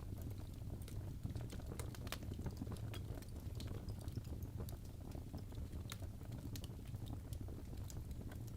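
Burning logs crackling in a fireplace: irregular sharp pops and snaps over a steady low rumble of the flames.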